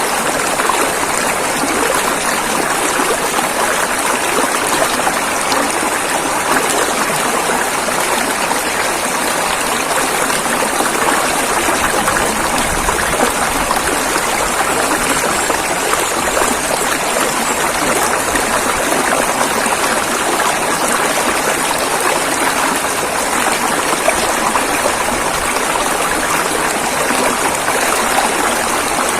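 River water rushing and splashing over rocks in a steady, unbroken wash.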